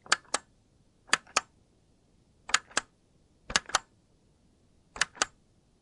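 Dolphin clicks: five pairs of short, sharp clicks, about one pair every second and a quarter.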